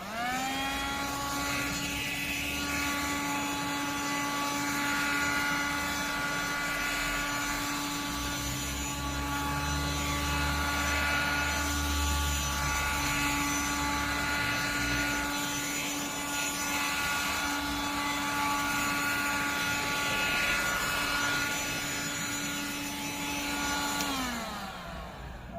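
Cordless bed vacuum cleaner's motor switched on, whining up to a steady high pitch over a rush of air, then running down in pitch as it is switched off near the end. A low rumble swells in the middle.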